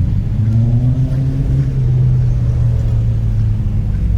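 A car engine running with a low, steady note, its pitch rising gently about half a second in and then holding.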